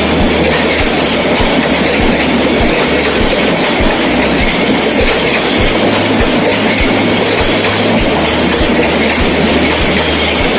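Passenger express train running through without stopping: a loud, steady rumble with the wheels clacking over the rail joints.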